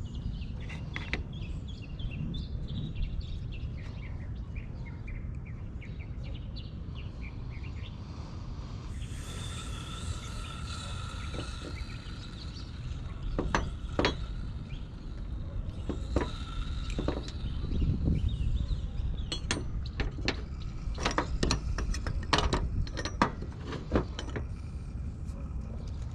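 Soldering torch flame running steadily on a copper shower-valve joint, with scattered clicks and clinks of metal. About nine seconds in, a brighter hiss with a few thin high tones joins.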